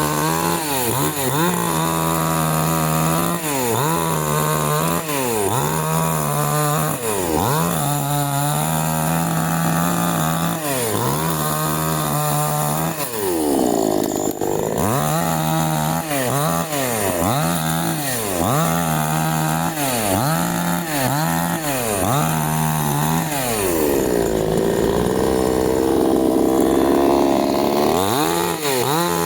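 Canfly 5800 two-stroke gasoline chainsaw running hard, its engine pitch dipping and climbing back about once a second. Two longer, deeper dips come about halfway in and near the end, as the engine pulls down under load.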